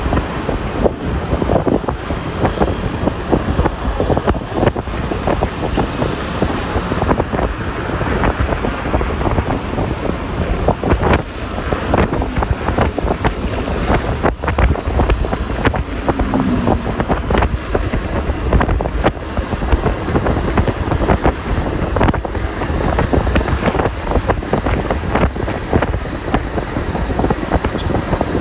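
Wind buffeting the microphone of a moving scooter, with road and traffic noise underneath, steady and loud throughout.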